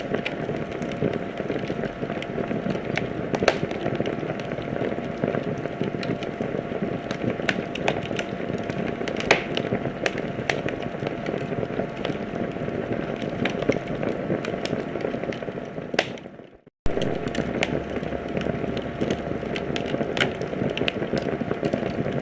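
Wood fire in a fireplace crackling, with irregular sharp pops over a steady rushing hiss. About two-thirds of the way through, the sound fades to silence for a moment and then comes straight back.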